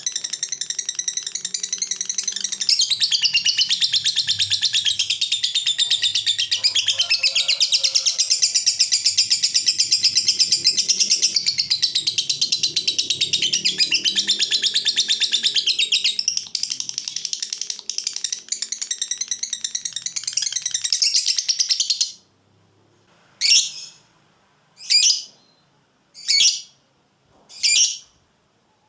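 Lovebird 'ngekek': a long, unbroken, rapid chattering trill lasting about twenty seconds, then five short separate chirps about a second and a half apart. A long ngekek like this is the song that lovebird fighter keepers prize and train for.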